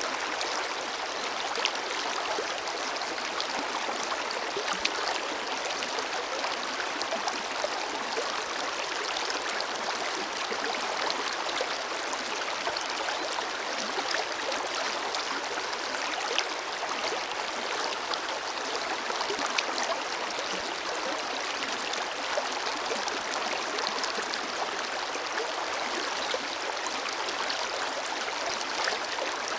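Forest river flowing steadily, a continuous rush of water with small splashes and gurgles scattered through it.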